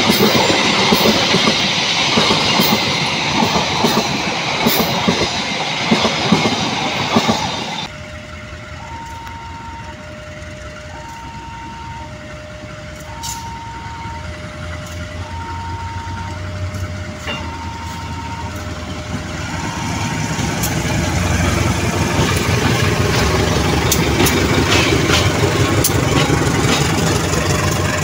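Passenger carriages running past with the clickety-clack of wheels over rail joints, cut off abruptly about eight seconds in. Then a level-crossing warning bell sounds two alternating tones, about one a second, as a KAI diesel-electric locomotive approaches, its engine rumble and wheel clicks swelling as it passes and the bell fades.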